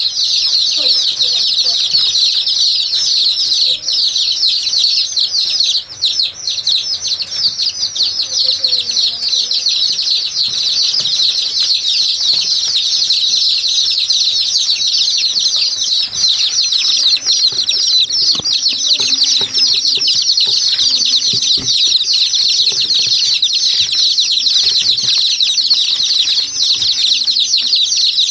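A flock of small birds chirping continuously in a dense, high chatter, with scattered lower calls from larger birds underneath.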